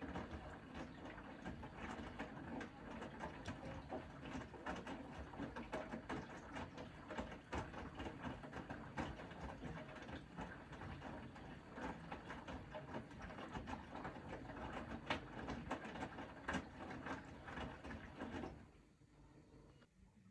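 Bosch Serie 4 front-loading washing machine turning its drum during the wash, with a busy patter of knocks and clicks from the load. It stops abruptly near the end as the drum pauses.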